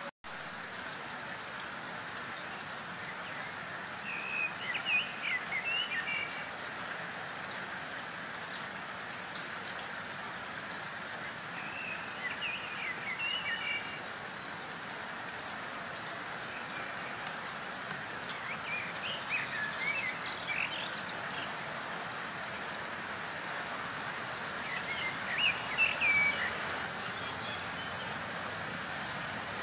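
Steady hiss of light rain, with a songbird singing short chirping phrases four times.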